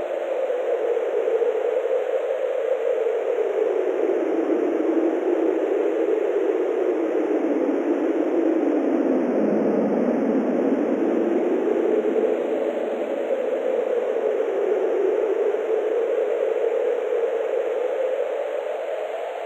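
Wind blowing steadily as a continuous hiss, its pitch slowly sinking around the middle and then rising again.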